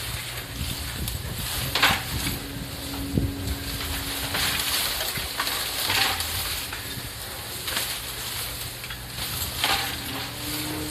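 Fallen bamboo and bamboo-grass leaves rustling and crackling in irregular bursts as a cow pushes into and tramples them, about three louder bursts, over a steady low hum.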